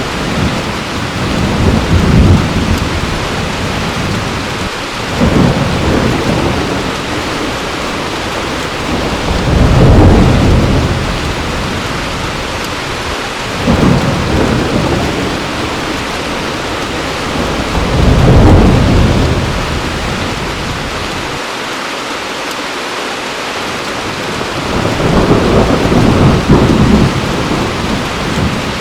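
Heavy rain falling steadily, with rolls of thunder rumbling low and swelling then fading about six times, the strongest about a third and two-thirds of the way through.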